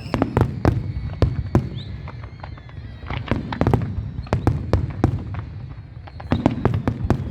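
Fireworks display: rapid strings of sharp bangs and crackles in three bursts, over a steady low rumble.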